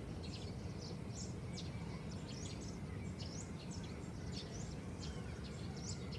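Birds chirping: short, high chirps over and over, over a steady low outdoor rumble.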